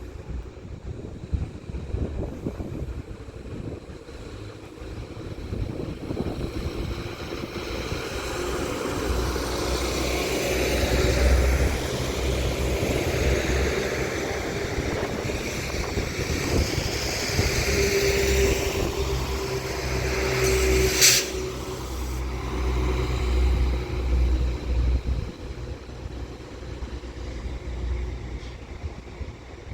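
Doubled-up Northern Class 195 diesel multiple unit departing and passing close. Its diesel engines build up under power with a low rumble and wavering whine, rising to a peak and then fading away. There is one sharp clank a little after twenty seconds in.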